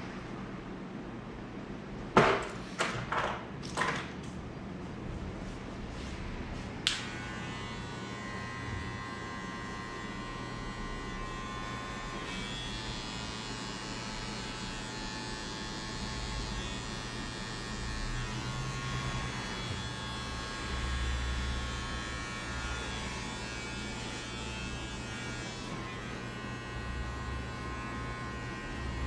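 Electric hair clippers running with a steady buzz during a fade cut. A few sharp clicks come about two to four seconds in, and another click about seven seconds in, as a higher whining buzz starts and carries on.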